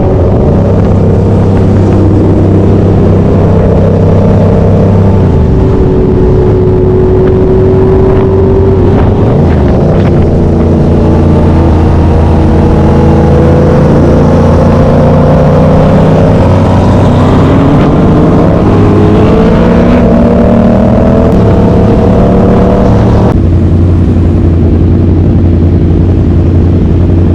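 Loud motor-vehicle engines running and revving, with several engine notes sliding up and down over a steady low drone. The sound changes abruptly about three-quarters of the way through.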